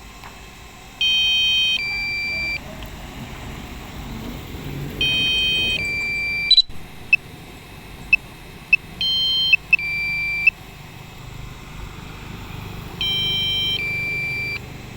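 Warning beeps from a DJI Mavic Pro's remote controller and flight app. The alert comes in two parts, a higher chord of tones and then a lower single tone, and repeats about every four seconds, with a few short blips in between around the middle. This fits the flight-warning alerts, such as low battery, that the pilot read out earlier.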